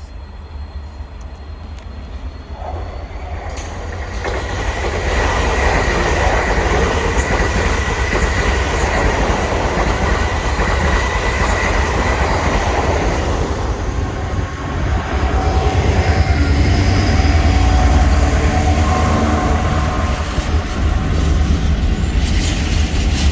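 Train passing at close range, wheels running on the rails. It gets louder over the first few seconds, carries a steady high squeal through the middle, and has lower steady tones in its later part.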